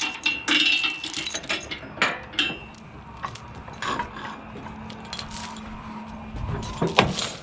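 Steel rigging chain being handled, its links clinking and rattling in short bursts, with a louder clank about seven seconds in.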